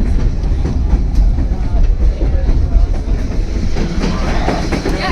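White Pass & Yukon Route narrow-gauge train running along the track: a steady low rumble with the clickety-clack of its wheels.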